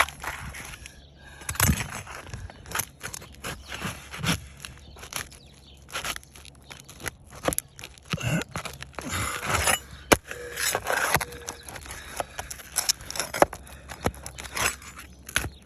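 A hand tool scraping and prying under roof shingles, with irregular rasping scrapes, crackles and sharp knocks as the sealed shingle is worked loose.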